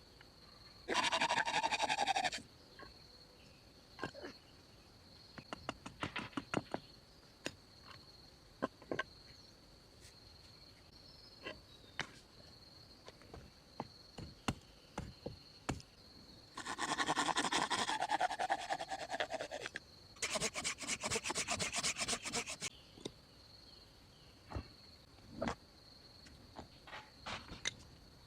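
Wood being scraped or rasped with a hand tool in three spells: a short one early, then a longer one, followed by a run of rapid strokes. Scattered light taps and knocks fall between them, over a steady high chirring of crickets.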